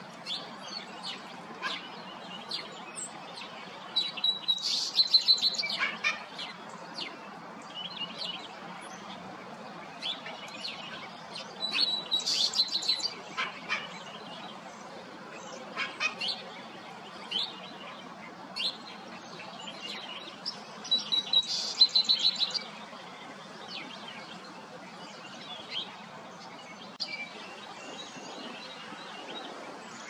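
A bird singing a short, quick song of high notes three times, about eight to nine seconds apart, with scattered single chirps from other birds between the songs.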